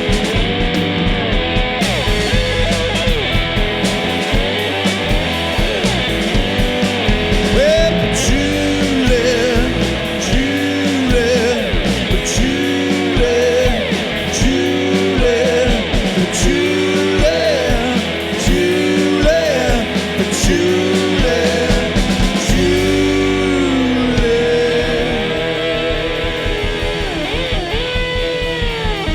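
Live rock band playing an instrumental passage: a lead guitar plays a solo of many short bent notes, some with quick vibrato, over bass and drums with steady cymbal hits.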